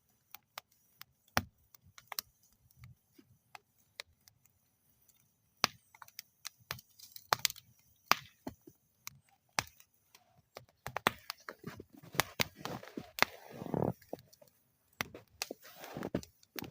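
Wood fire burning in a metal fire bowl, crackling with scattered sharp pops. The pops are sparse at first and grow into dense, busy crackling about two-thirds of the way through.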